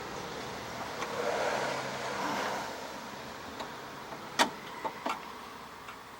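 A rushing sound swells and fades over a couple of seconds. Then come a few sharp clicks and taps from hands working on the snowblower's carburetor linkage and primer hose.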